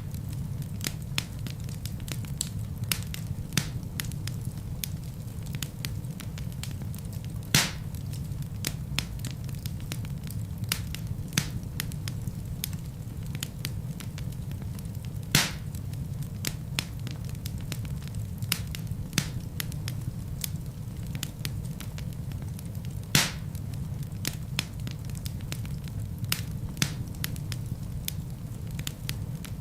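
Wood fire burning in a fireplace: a steady low rumble with frequent small crackles, and three louder pops of the burning logs spaced about eight seconds apart.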